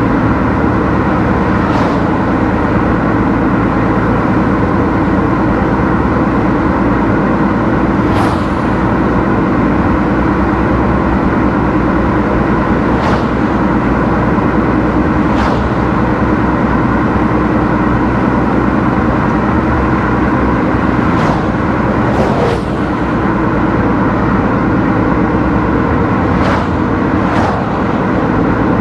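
Car driving along a road: steady engine and tyre noise, with a short knock or click every few seconds.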